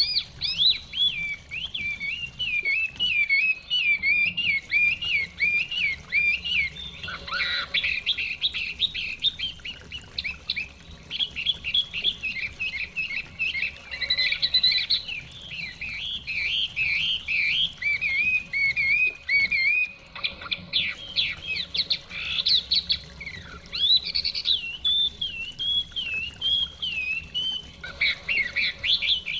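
Chinese hwamei (melodious laughingthrush) singing a long, varied song of rapid slurred whistles, with only a few short pauses.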